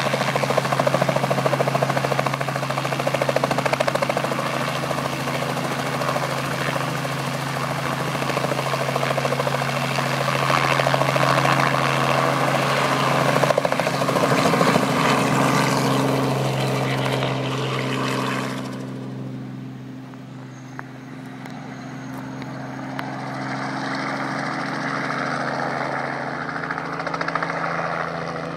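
Helicopter rotor and engine running steadily with a rhythmic blade chop. About two-thirds of the way through the sound suddenly turns duller and quieter, as if the helicopter moves off or turns away, then slowly grows louder again.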